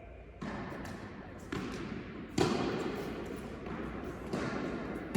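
Tennis ball struck by rackets and bouncing on an indoor court, a handful of sharp pops about a second apart that echo in the hall, the loudest about two and a half seconds in.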